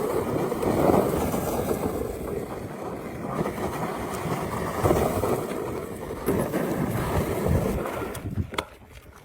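Wind buffeting the microphone, with rumble from riding a small minibike or go-kart, dying away near the end.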